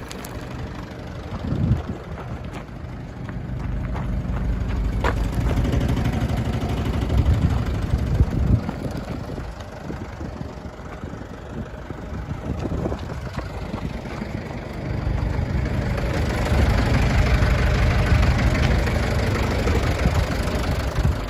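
Mitsubishi Canter's 4D34 turbo-diesel four-cylinder engine idling, with two spells where it runs louder and higher, the second near the end.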